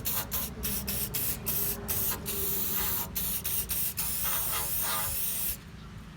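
Aerosol can of Rust-Oleum chrome spray paint hissing as it is sprayed into a truck's exhaust tip: a few short spurts, then one long steady spray that stops about five and a half seconds in.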